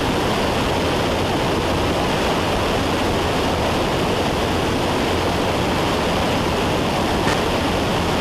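Steady in-flight cabin noise of a Cessna 172: the engine and propeller drone with airflow, an even noise with a constant low hum that does not change.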